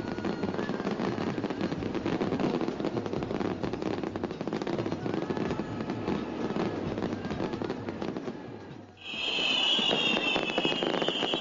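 Fireworks crackling densely, a rapid mass of small pops and clicks. About nine seconds in it drops away and a high whistle begins, slowly falling in pitch.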